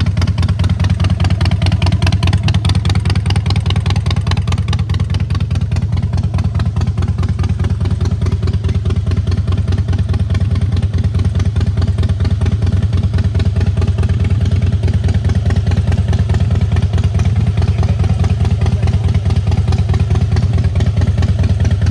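Harley-Davidson Softail Rocker C's Twin Cam 96B V-twin running steadily through its exhaust, a loud, even stream of firing pulses at low revs.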